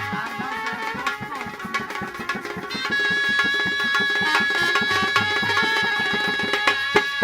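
Music from a drum band: quick, steady hand-drum strokes under a melody instrument playing long held notes.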